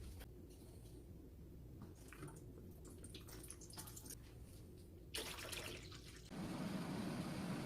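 A steady stream of running or pouring water for about a second and a half near the end, after a few faint small kitchen sounds.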